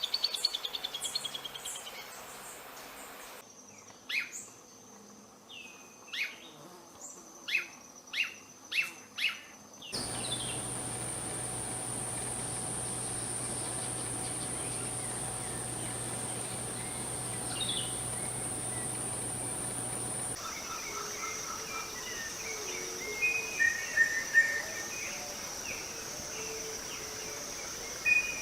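Tropical forest birds calling over a steady, high-pitched insect drone, in several spliced recordings. A fading run of chirps is followed by single call notes about once a second, then the insect drone alone, then more bird chirps over the drone.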